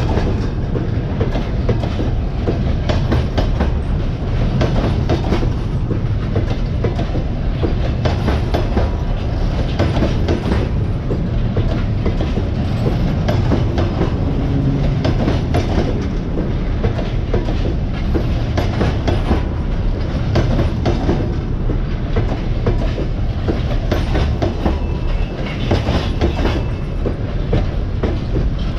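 Passenger coaches rolling past, their wheels clicking over the rail joints in a steady, continuous run over a low rumble.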